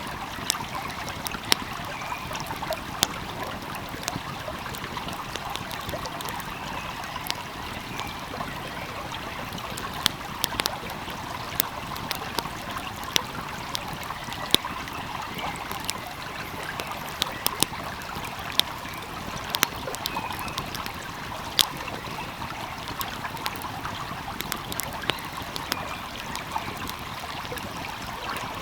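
A stream flowing steadily, with a wood fire crackling over it in sharp, irregular pops and snaps.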